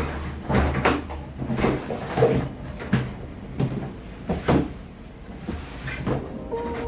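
A run of sharp knocks and clatter, about two a second, from household things being handled, with cupboard doors opened and shut, over a low steady hum.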